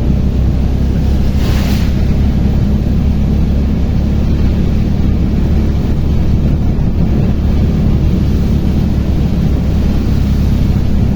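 Auto-rickshaw (tuktuk) engine running steadily under way, heard from inside the cab with a constant rush of wind and road noise; a brief hiss about one and a half seconds in.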